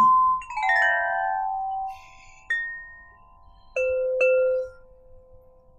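Crystal harp ringing: a held clear note sounds under a quick run of falling notes, a single higher note, and then two lower notes struck one after the other, each ringing out and fading.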